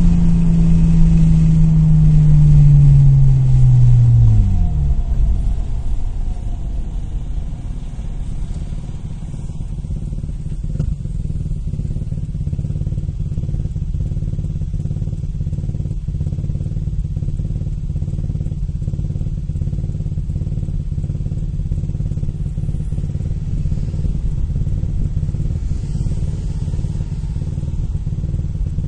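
2002 Nissan Maxima's 3.5-litre V6 (VQ35DE) held at raised revs that slowly sag, then dropping back to idle about four seconds in and idling steadily. The engine is being checked for a random misfire (P0300).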